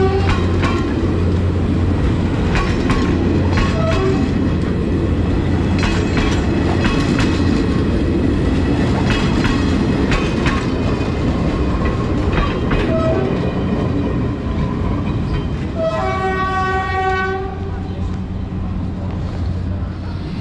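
PNR passenger train rolling past close by: a steady rumble with wheels clicking over the rail joints. A horn sounds for about a second and a half near the end, and the rumble eases as the last car goes by.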